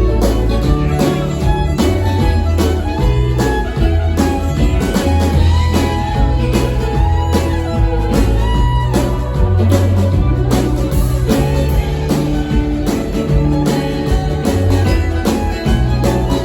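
A live band playing with guitar and other plucked strings over a steady bass line and drum beat.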